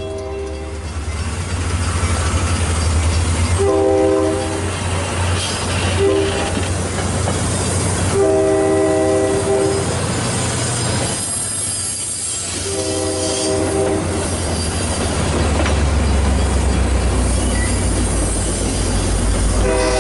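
Diesel passenger locomotive's air horn sounding a series of blasts, some short and some held for over a second, over the steady low rumble of the engine and wheels rolling on the rails.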